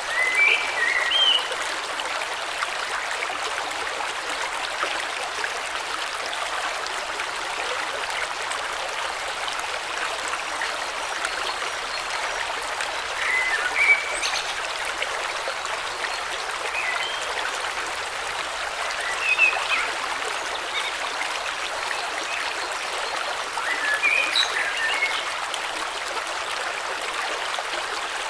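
A river or stream flowing steadily. Short bird chirps come through it a handful of times.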